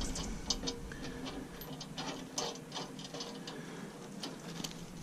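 Light, irregular metallic clicks and taps of hand tools on bolt hardware as a nut and bolt are worked on.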